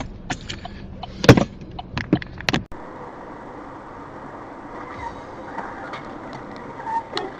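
Sounds inside a car picked up by a dashcam: a few sharp knocks and clicks, the loudest about a second in. After about two and a half seconds the sound switches abruptly to a steady, even road noise.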